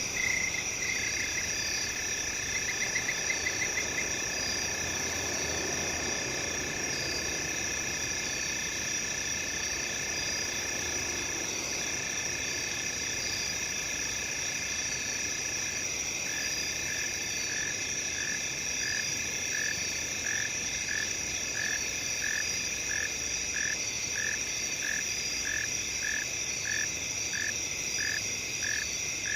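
Night countryside ambience: crickets and other insects trilling steadily at several high pitches. A separate chirping call pulses in short runs at the start, then from about halfway repeats evenly, about three times every two seconds.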